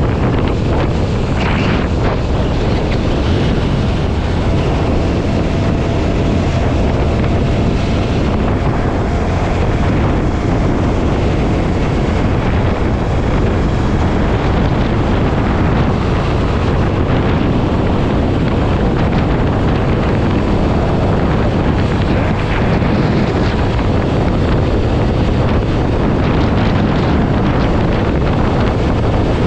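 Loud, steady wind rushing over the microphone of a motorcycle at highway speed, with road and engine noise underneath.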